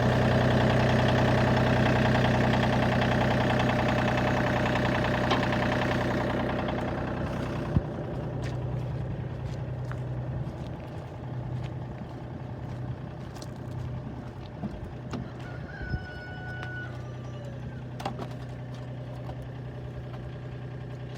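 Tractor engine idling steadily with a low hum. About seven seconds in it becomes clearly quieter and duller and runs on that way, with a few small knocks and one brief high chirp later on.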